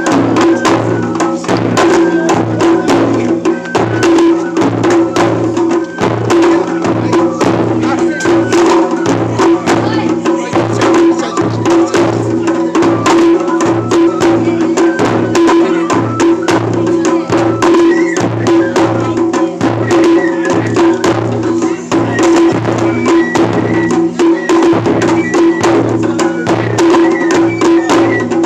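Japanese festival hayashi music: taiko drums beaten in a fast, continuous rhythm, with sustained melody notes above.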